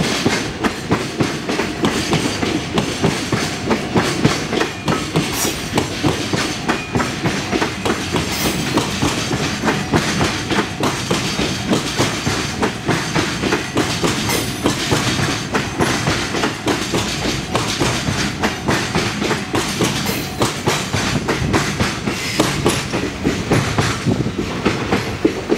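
Freight train of container flat wagons rolling past, its wheels clicking steadily over the rail joints in an unbroken clickety-clack.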